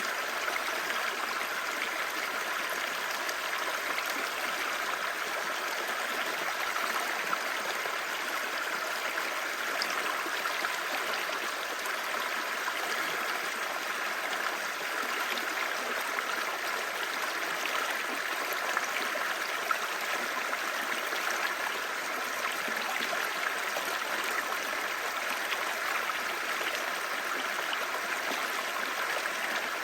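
Clear stream babbling and gurgling over stones in a steady rush of running water.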